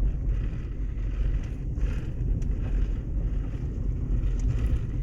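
Steady low rumble of a vehicle driving slowly, engine and tyre noise heard from inside the cab.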